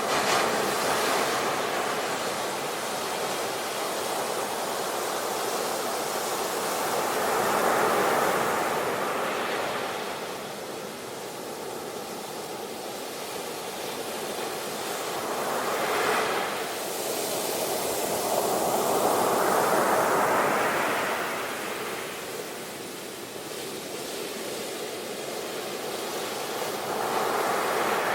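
Sea waves breaking and washing in, a steady surf noise that swells and fades five times.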